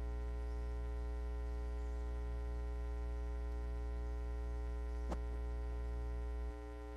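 Steady electrical mains hum with many even overtones. A single brief click comes about five seconds in, and the hum drops in level shortly before the end.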